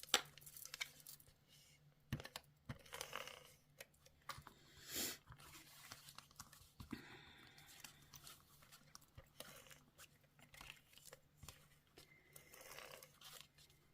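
Faint handling of paper and cardstock: scattered light rustles and taps, with a brief tearing or peeling sound about five seconds in, over a faint steady hum.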